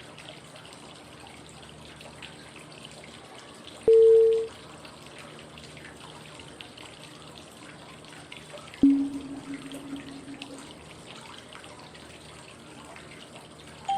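Steady flowing-water white noise with cue tones for 5-5-5 breathing, one tone at each five-second change of breath phase. A short higher tone sounds about four seconds in, and a lower tone that lasts about two seconds sounds about five seconds later.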